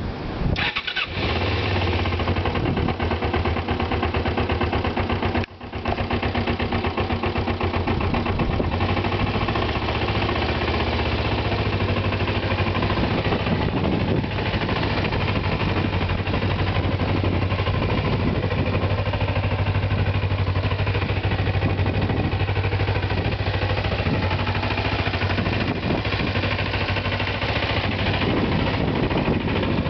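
A 1994 Kawasaki ZZR-250's parallel-twin engine running steadily at idle while it warms up from a cold start. The sound drops out briefly twice, just under a second in and about five and a half seconds in.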